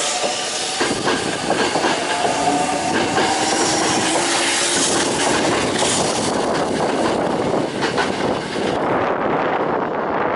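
A train running past close by, its wheels clattering over the rail joints.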